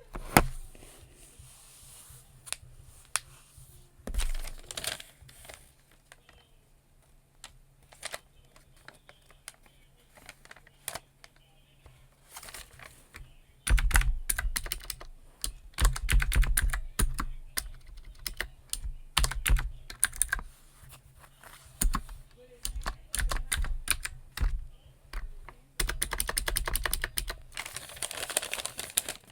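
Computer keyboard being typed on, keys clicking. The strokes come scattered at first, then in fast, dense runs from about halfway on.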